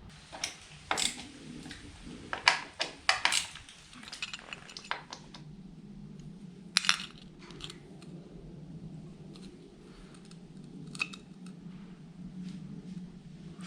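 Small metal objects clinking and clattering as they are handled: a quick run of sharp clicks, then a double clink and a few scattered taps, over a faint steady hum.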